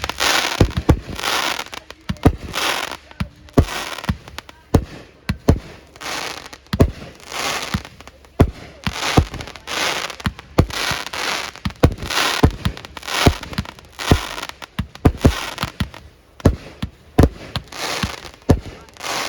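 Fireworks going off in a steady, rapid barrage: sharp bangs in quick succession, about one and a half a second, with no let-up.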